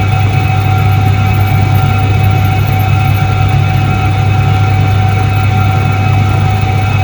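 1978 Soviet ISET-3 washing machine running steadily: an even motor hum with a few steady higher whining tones over it.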